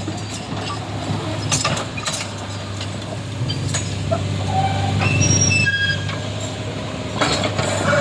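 Heavy diesel vehicle engines running steadily at low revs, a continuous low drone, with a few sharp knocks and some short high squeaks about five seconds in.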